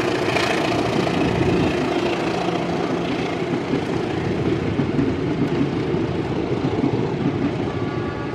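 A train passing: a steady, heavy rumble of locomotive engine and wagons on the rails, easing a little near the end.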